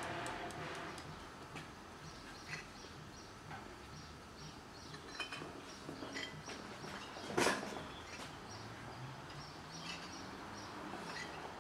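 Faint scattered bird chirps over quiet background noise, with one short sharp knock about seven and a half seconds in.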